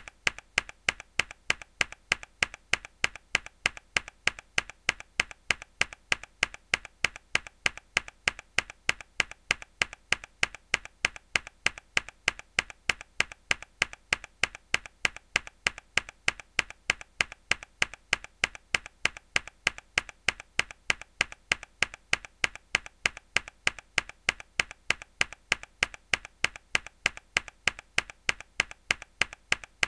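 A mechanical keyboard key struck hard, over and over, in a steady even rhythm of about three clicks a second, each sharp clack followed by a fainter click.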